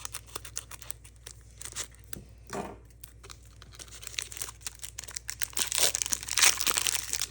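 Foil wrapper of a Pokémon trading card booster pack crinkling as it is handled and torn open. The tearing and crackling are densest and loudest about six to seven seconds in.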